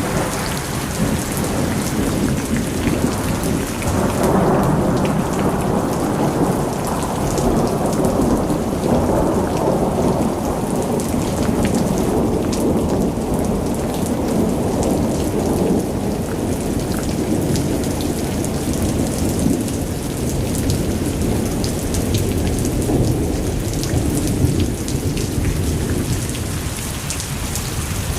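Heavy monsoon rain pouring down, with a long roll of thunder that swells a few seconds in, rumbles on for most of the time and fades toward the end.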